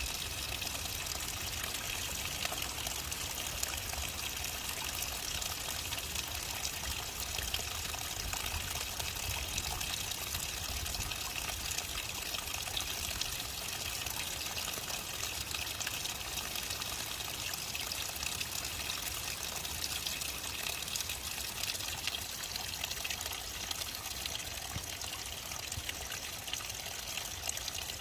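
Waterfall on a mountain stream: water pouring and splashing in a steady, unbroken rush.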